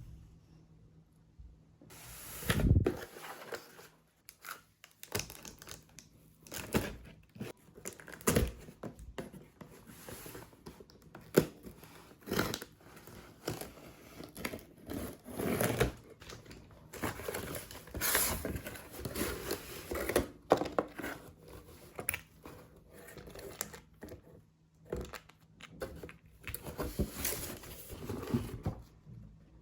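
Packaging being handled by hand: irregular crinkling, tearing and rustling, with scattered sharp clicks and knocks.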